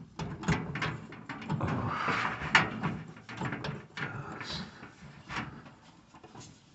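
Hands working a drum belt onto a Whirlpool Cabrio dryer's drum and motor pulley: irregular knocks, clicks and scraping of the belt against the dryer's metal parts. The sharpest click comes about two and a half seconds in.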